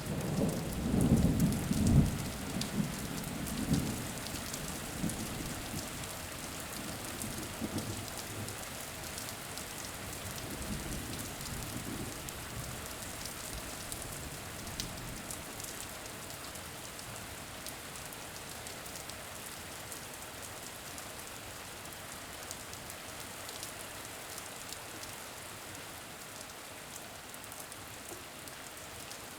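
Steady rain with faint scattered drop ticks, and a low roll of thunder in the first few seconds that dies away.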